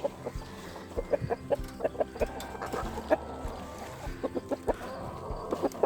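A flock of backyard chickens clucking in many short, overlapping calls, excited at being offered kale treats.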